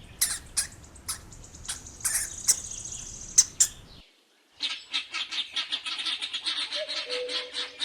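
Hamster sounds: sharp clicks and short high squeaks, then after a brief break a fast, even run of chirping squeaks.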